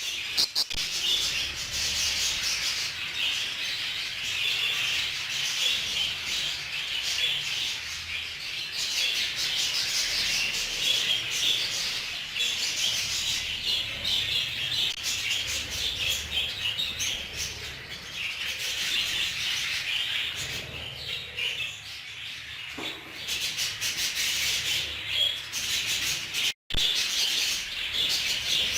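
A flock of budgerigars chattering, a dense, continuous twittering and chirping of many birds at once. It breaks off for an instant near the end.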